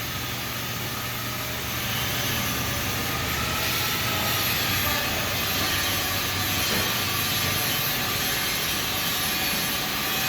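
Steady rushing background noise with a low hum, level throughout, like a running engine or machine.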